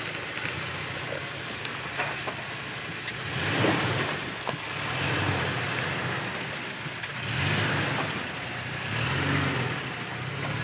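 2022 Toyota Tacoma pickup's engine running as the truck crawls along a dirt trail. The engine note swells and eases several times, with scattered small ticks and crackles from the tyres on the trail.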